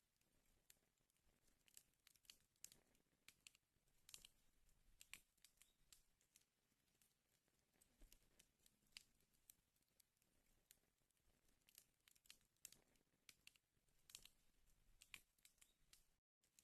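Faint wood fire in a fireplace crackling, with irregular sharp pops and snaps over a soft hiss. The sound cuts out completely for a moment just before the end.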